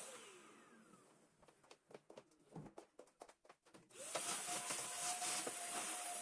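Vacuum cleaner switched off, its motor whine falling as it spins down, followed by a few light clicks and knocks of handling; about four seconds in it is switched back on and runs steadily.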